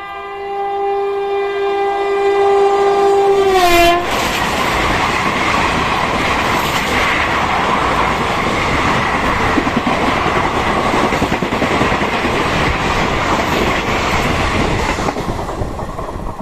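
A passing train sounds a long horn whose pitch drops sharply as it goes by. Its coaches then rush past in a loud, steady clatter that eases off near the end.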